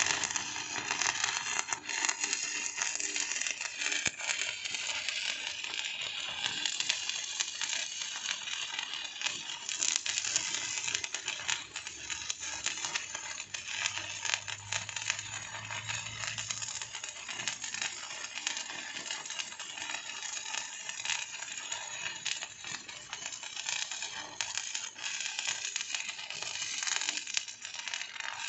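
Electric arc welding: a steady, dense crackle and sizzle of the arc with many tiny pops.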